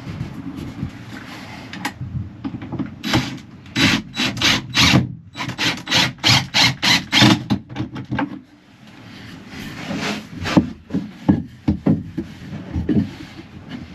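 A hand tool worked back and forth on wood in quick rasping strokes, about two or three a second. It stops briefly, then goes on in more uneven strokes.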